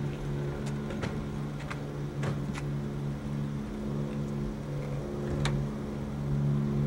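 A vehicle engine idling with a steady low hum, with light clicks and knocks scattered through it.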